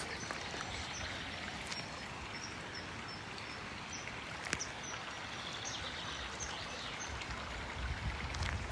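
A small bird calling: a run of short, high chirps, about two a second, over the steady rush of a stream.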